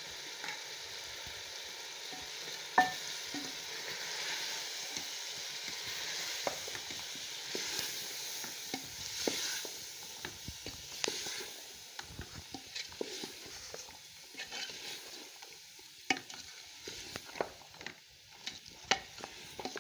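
Chicken and green peas sizzling as they fry in a masala in a metal pot, being browned while a spoon stirs, scraping and knocking against the pot. One knock about three seconds in is the loudest; the sizzle dies down in the second half while the spoon clicks go on.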